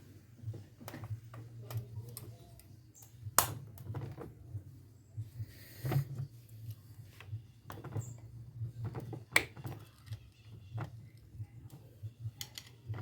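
Scattered small metal clicks and knocks as car starter motor parts are handled and fitted together by hand, over a steady low hum.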